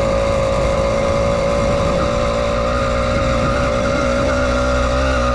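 80cc two-stroke bicycle engine kit on a mountain bike running steadily under way, a noisy, even engine note that holds its pitch, with a slightly brighter edge from about two seconds in.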